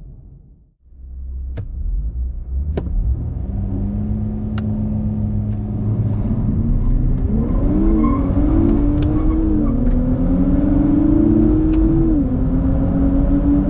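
Nissan Z's twin-turbo V6 engine under acceleration: after a couple of faint clicks, the revs build, rise and fall several times as it changes gear, then climb steadily near the end.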